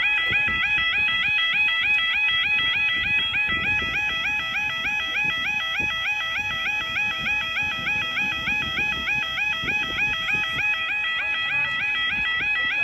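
UK level crossing yodel alarm sounding continuously: a fast, even two-tone warble that repeats several times a second without a break.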